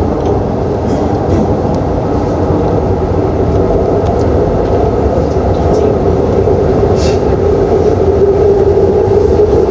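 Shinbundang Line metro train running at speed, a steady rumble of wheels on rail with a strong hum that grows slightly louder toward the end. There is a faint click about seven seconds in.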